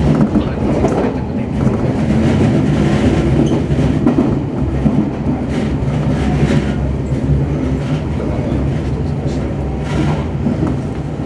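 Semboku Rapid Railway 7020-series electric train running at speed, heard from inside the driver's cab: a steady rumble of wheels on the rails with a low hum and a few faint clicks.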